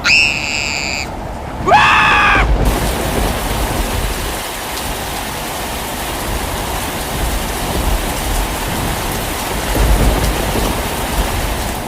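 Heavy rain falling steadily, with low rumbles of thunder swelling twice. It is preceded near the start by two short pitched calls, the second one rising.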